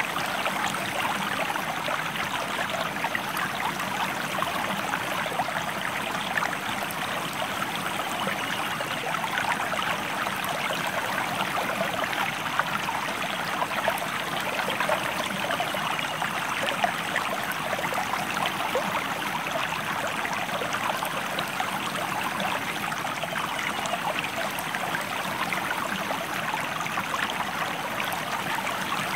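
A river stream flowing, a steady, even rush of running water.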